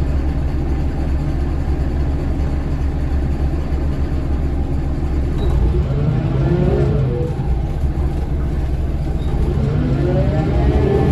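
A 2003 Scania L94UB bus's DC9 five-cylinder diesel engine running, heard from on board. It holds steady at first, then there is a rising whine as the bus accelerates about six seconds in, and again near the end.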